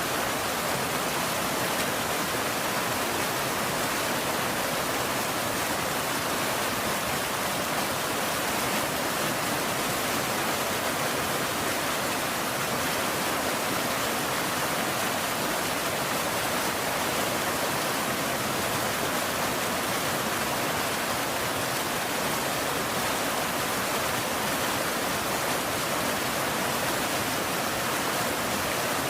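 Steady rain: an even, unbroken hiss with no single drops standing out and no thunder.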